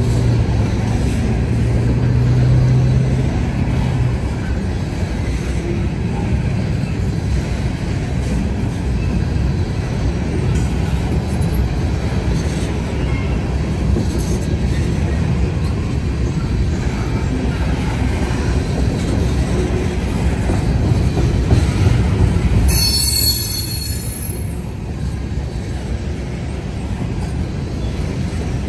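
A freight train rolling past with a steady rumble. About 23 seconds in, a high-pitched metallic squeal from the train lasts about a second.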